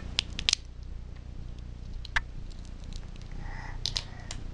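Peanut shell being cracked and pried apart by hand: a few sharp dry cracks and clicks, bunched in the first half-second, another about two seconds in and more near the end.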